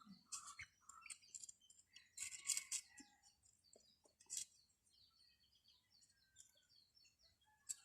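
Small birds chirping faintly and repeatedly, with a few soft clicks and a brief scraping patch about two seconds in.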